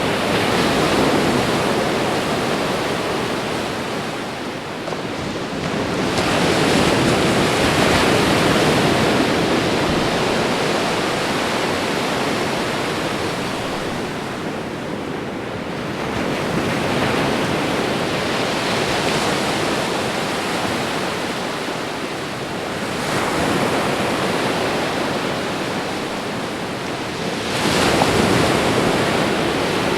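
Ocean waves crashing: a continuous rush of surf that swells each time a new wave breaks, every several seconds.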